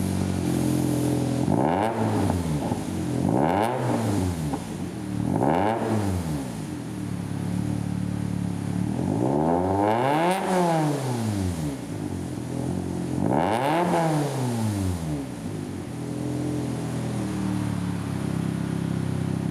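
Subaru Impreza WRX STI (GDB) with a turbocharged 2.0-litre flat-four, idling through a 3-inch cat-back exhaust and revved in place five times: three quick blips, then two longer, higher revs that fall back to idle.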